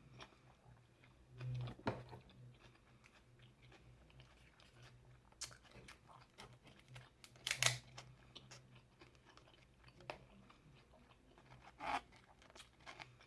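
Close-miked eating: a person chewing seafood with soft mouth and lip smacks and a few sharper crunches, the loudest about two thirds of the way through.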